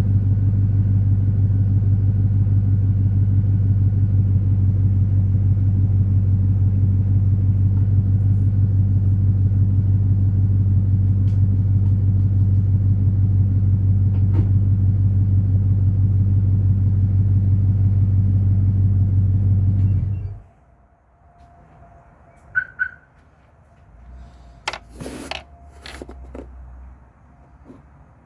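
2001 GMC Yukon's 5.3-litre V8 idling steadily, with a deep rumble through JBA shorty headers and a true-dual exhaust with an H-pipe crossover. The engine cuts off about twenty seconds in, and a few faint clicks and knocks follow.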